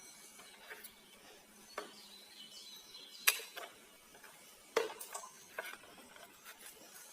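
Scattered sharp clicks and knocks of a plastic emergency LED light being handled, the two loudest about three and five seconds in.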